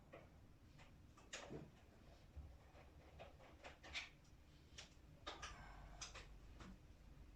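Faint, scattered clicks and light knocks of objects being handled, with a short scraping rustle about five to six seconds in.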